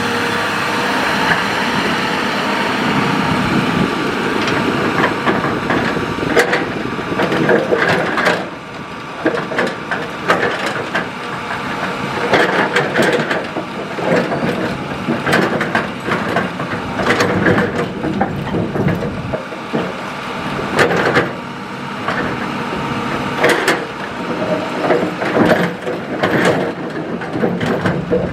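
Hitachi hydraulic excavator's diesel engine running under load as its bucket digs and drops sand and gravel, with many irregular knocks and crunches of stone against steel.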